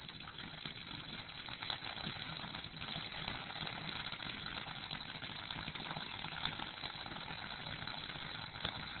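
Ground firework fountain spraying sparks: a steady hiss with a few sharp crackles through it.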